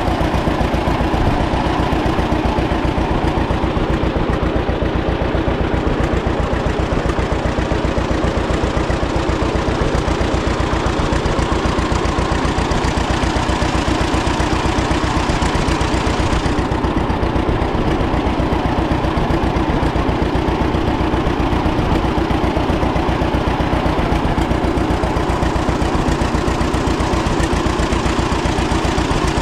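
1936 John Deere Model A's two-cylinder engine running steadily at idle, with an even train of firing pulses.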